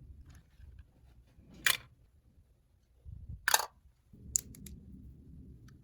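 A few sharp clicks and taps of small hard objects being handled, two of them loud, over a low steady hum.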